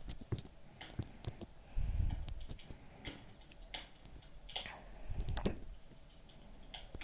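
Wood fire crackling, with irregular sharp snaps and pops, and two louder low rumbles about two seconds in and again near five seconds.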